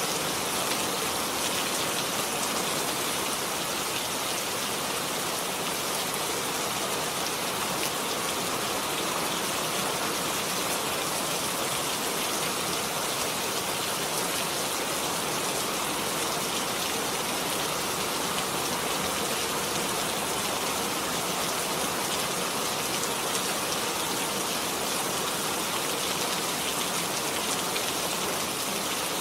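Steady rain falling, an even hiss with no thunder or breaks.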